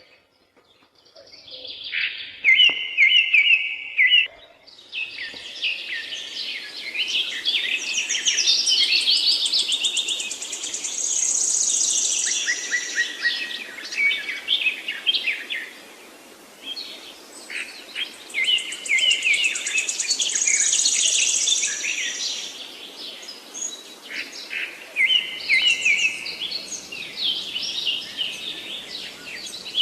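Songbirds singing: dense runs of high chirps and trills, with similar phrases coming back every several seconds over a faint steady background hiss.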